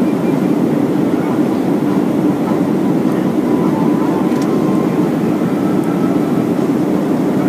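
Steady cabin noise inside a Boeing 737-400 in flight on approach: an even, low rush of airflow and CFM56-3 engine sound with a faint steady whine.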